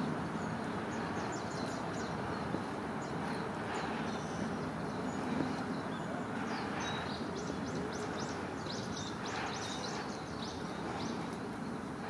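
Many faint, short, high chirps and ticks from small birds, thickest in the second half, over a steady outdoor background noise.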